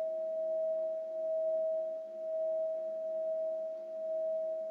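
A steady pure healing-frequency tone held near 640 Hz, typical of the 639 Hz solfeggio frequency linked with harmonizing relationships. Its loudness swells and fades gently every second or so.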